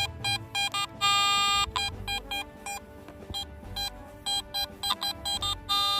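Garrett AT Max metal detector sounding on a target with a target ID of 80: short repeated beeps, about three a second, as the coil sweeps over it, with a longer held tone about a second in and again near the end.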